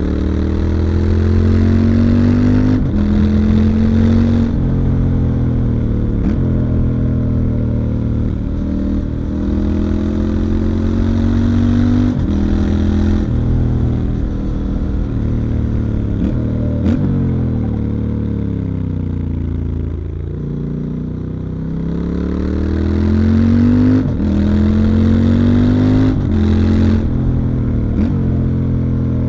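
Stock Triumph Scrambler 1200 XE's 1200 cc parallel-twin engine heard from on the bike, pulling up through the gears: the pitch rises and drops back at each upshift. About two-thirds of the way through, the revs fall away as the bike slows, then it accelerates and shifts up again.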